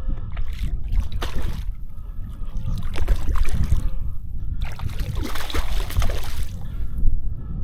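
Water splashing in irregular surges as a hooked trout fights close to the bank, over a steady low rumble of wind on the microphone.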